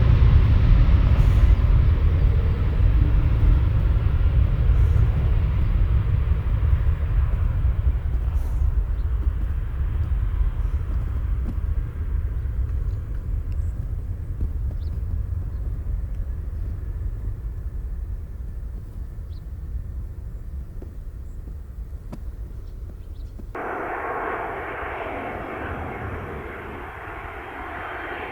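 Jet airliner engines: a deep rumble that fades slowly as the aircraft moves away. About 23 seconds in, it cuts abruptly to a different aircraft's engine noise, thinner and higher.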